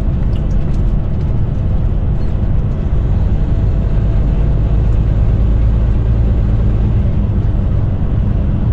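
Semi truck's diesel engine and tyre noise heard from inside the cab while driving on the highway: a steady, loud, low drone.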